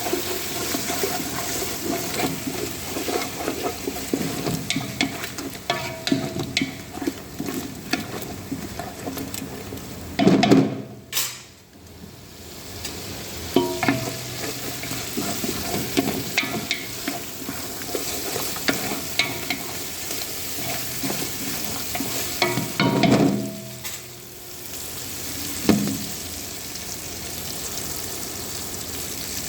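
Chicken pieces being mixed into a yogurt, spice and ginger-garlic marinade in a bowl: continuous wet stirring and squelching with small clicks, and louder bursts about ten seconds in and again near twenty-three seconds.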